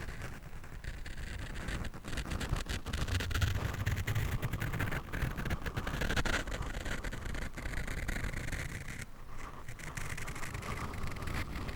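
Scratching and rubbing directly on a microphone, a dense run of short scratchy strokes that grows heavier between about two and six seconds in.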